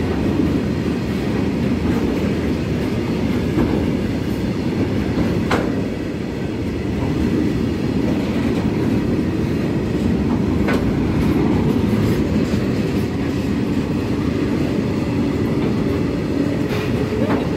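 Indian Railways freight train of BTPN oil tank wagons rolling past at close range: a steady rumble of wagon wheels on the rails, broken by three sharp knocks spaced about five seconds apart.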